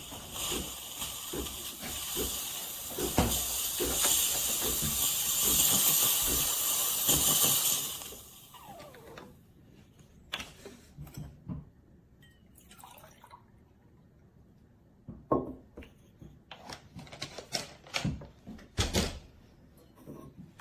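Water running in a steady rush for about eight seconds, then stopping; scattered light knocks and clatter follow.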